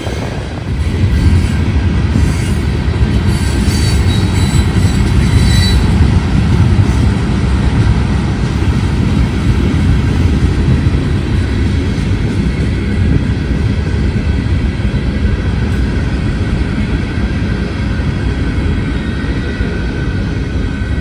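A train rolling past at close range: a heavy, steady rumble of wheels on rail, with thin high wheel squeal a few seconds in.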